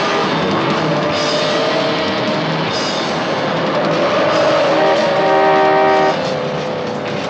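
Rock music soundtrack with a drum kit and guitar.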